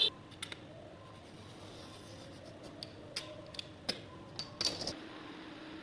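A series of light, sharp clicks and taps, about ten in all and mostly in the second half, from small hard objects being handled.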